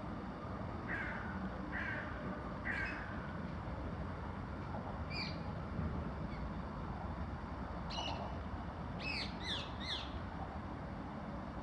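Birds calling: three short calls in the first three seconds, then a quick run of higher calls near the end, over a steady low rumble.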